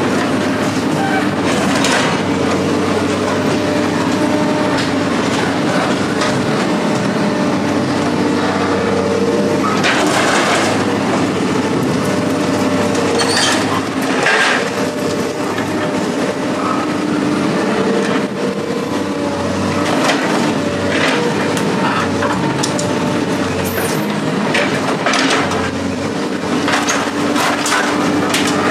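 Heavy machinery engine running steadily, with scattered metal clanks and scrapes over it, several close together near the middle and toward the end.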